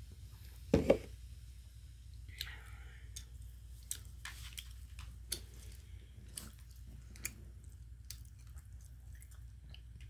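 Close-up eating sounds of a person chewing, with scattered wet clicks and smacks of the mouth. There is a short, louder burst about a second in.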